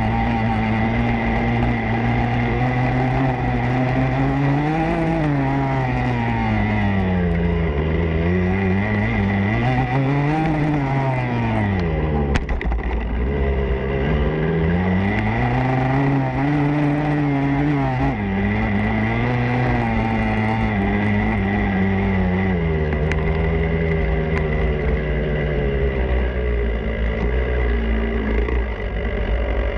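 Motocross bike engine heard onboard, its revs rising and falling in repeated surges (about five, ten and sixteen seconds in) as the throttle is opened and closed, with a steady high whine running underneath.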